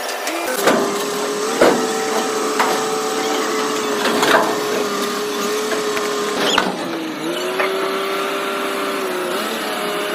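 A motor running with a steady whine that sags in pitch briefly about seven seconds in, with five or so sharp knocks over it.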